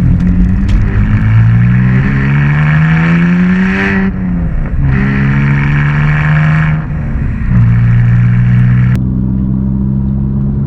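BMW E46 325Ci's 2.5-litre inline-six accelerating hard, its pitch climbing, then an upshift about four seconds in; it pulls again, shifts once more around seven seconds, and settles into a steady cruise.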